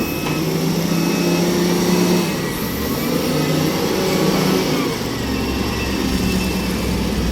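Heavy truck's diesel engine running steadily, its pitch rising and falling a little.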